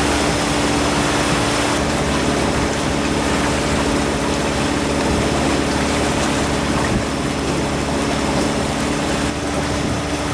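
A boat's engine running steadily under way, a constant hum over the rush of wind and water.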